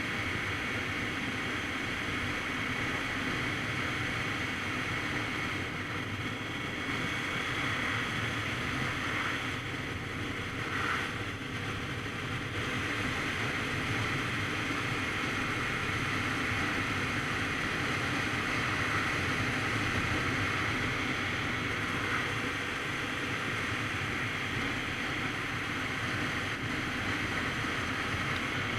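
Steady wind rushing over the microphone on a Kawasaki Z900RS Cafe at riding speed, with the motorcycle's inline-four engine and road noise running underneath.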